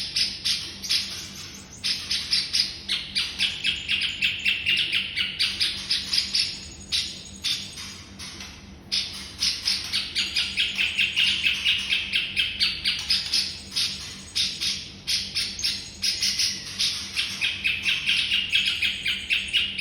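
Songbird chirping in a fast run of short, repeated notes, several a second, with a few brief breaks. This is a masteran, a birdsong recording played to teach white-rumped shamas (murai batu) new song.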